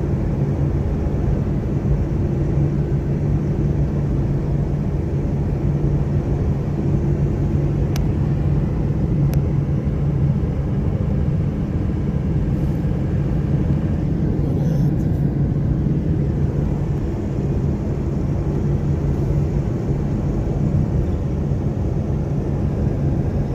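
Car driving at a steady speed, heard from inside: a constant low engine and road rumble with a steady drone. Two faint ticks come about eight and nine seconds in.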